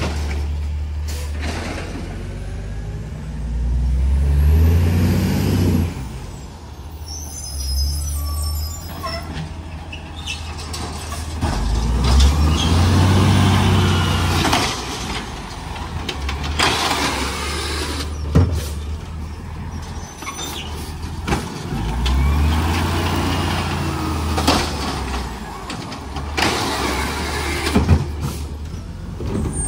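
Garbage truck's engine running and revving up several times, with sharp air-brake hisses and a brief high squeal about a third of the way in.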